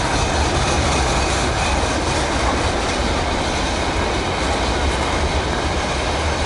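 A train passing on the railway line: a steady, loud rolling noise from its wheels on the rails.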